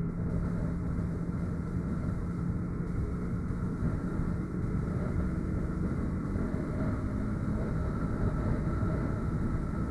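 Motorcycle engine running steadily under way, mixed with rushing wind noise.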